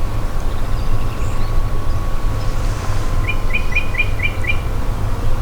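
A bird calling a quick run of about six short, evenly spaced chirps, starting a little past halfway through. Under it runs a steady low rumble with a faint hum.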